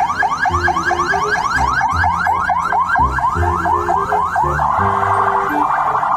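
Toy ambulance's electronic siren sounding: quick rising whoops about five a second, switching near the end to a fast, even warble.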